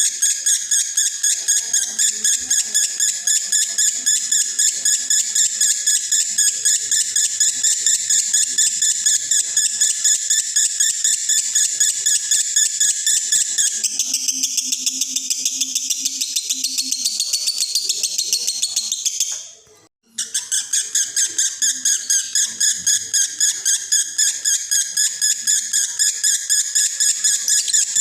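Male Konslet lovebird in breeding condition singing a long, fast chattering song of high chirps, with a brief break about two-thirds of the way through before it resumes.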